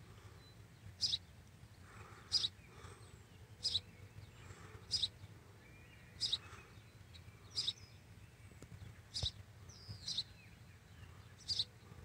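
A bird chirping in the open country, one short high chirp repeated about every second and a quarter, over a faint steady low hum.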